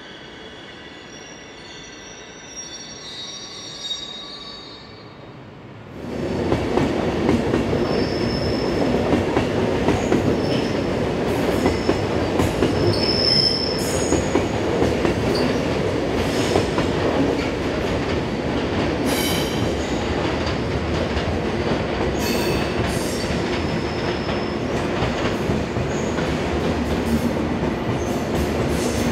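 Passenger trains rolling over curved track and switches: a steady rumble of wheels on rail, with high-pitched wheel squeals and occasional clicks. It is faint at first and becomes loud suddenly about six seconds in.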